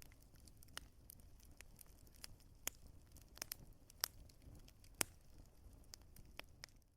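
Wood fire crackling: a faint steady low hiss with many scattered sharp pops and snaps, the loudest about four and five seconds in.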